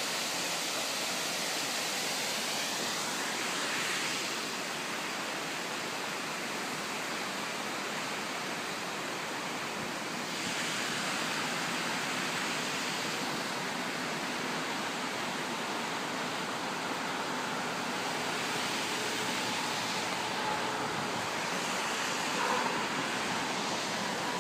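Oshinkoshin Falls: a steady rush of water pouring down, swelling slightly at times.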